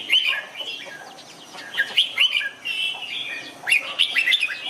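Red-whiskered bulbuls singing: a run of quick, chirpy whistled phrases of rising and falling notes, the song used as a teaching model for caged bulbuls.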